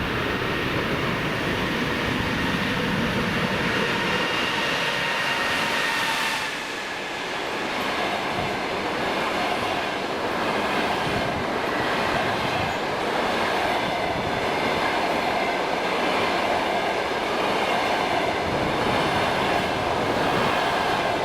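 EP20 electric locomotive passing at speed with a double-deck passenger train. Its whine in several tones drops in pitch and fades about six seconds in, followed by the steady rolling noise of the coaches running past on the rails.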